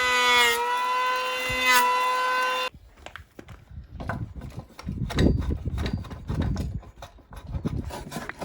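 A power tool's motor runs with a steady whine, its pitch dipping twice as it bites into wood, then stops abruptly. After that, irregular scraping and rubbing on wood follows, with dull knocks.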